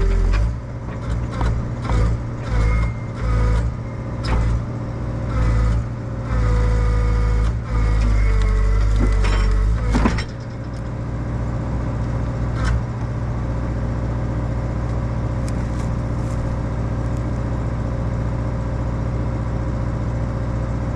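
Excavator diesel engine and hydraulics working in about eight short bursts of load over roughly ten seconds, with a sharp clank at the end of them, then the engine running steadily and more quietly.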